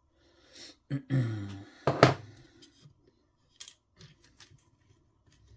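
Small metal E-clips being pried off the RC car's plastic steering bellcrank posts with a hand tool: light clicks and scraping, with one sharp snap about two seconds in.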